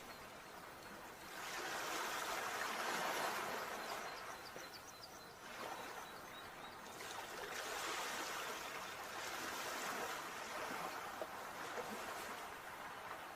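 Sea waves washing in and drawing back, the rush of water swelling and easing in surges every few seconds.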